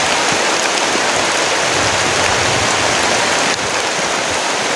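Heavy rain pouring down steadily, a dense, even hiss, with a slight drop in level about three and a half seconds in.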